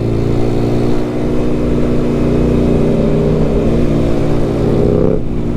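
Benelli BN 125's single-cylinder engine pulling under acceleration, its pitch climbing steadily, then breaking off and dropping sharply about five seconds in at a gear change.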